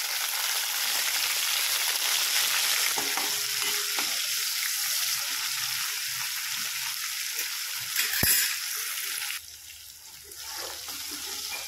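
Chopped tomato sizzling loudly in hot oil with garlic in a nonstick kadhai while being stirred. About eight seconds in there is a single sharp knock. Soon after, the sizzle drops off suddenly and then comes back fainter.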